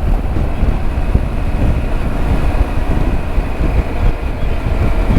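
Wind buffeting a helmet-mounted microphone at highway speed on a Triumph Tiger 900 motorcycle, a steady low rush with the bike's running and road noise beneath it.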